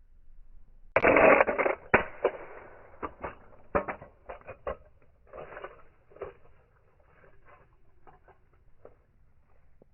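1/64 scale diecast toy cars crashing together with a loud metallic clatter about a second in, followed by a run of scattered clicks and rattles as the cars and loose parts tumble and settle, thinning out over several seconds.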